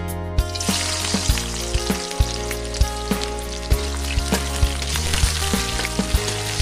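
Sliced onion dropped into hot oil in a metal kadai starts sizzling within the first second and keeps frying steadily while a metal ladle stirs it.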